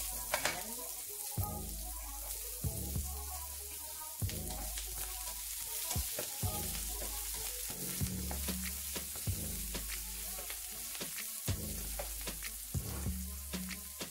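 Chopped onions and spring onions sizzling in oil in a frying pan, stirred with a spatula that scrapes and taps against the pan again and again. Under it a low hum comes and goes every second or two.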